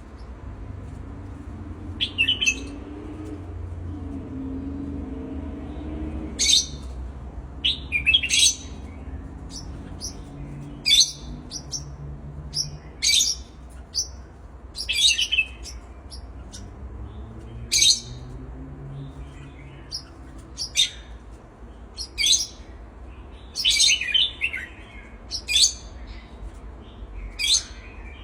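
Pet birds chirping: short, sharp, high-pitched calls, one every second or two, over a faint low murmur.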